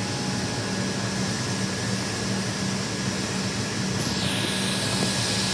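A train running, heard as a steady rumble with a pulsing low hum and a faint whine. The hiss changes about four seconds in.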